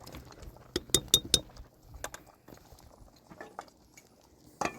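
Utensils clinking against dishes: a quick run of four sharp, ringing clinks about a second in, a few lighter taps, and a duller knock near the end.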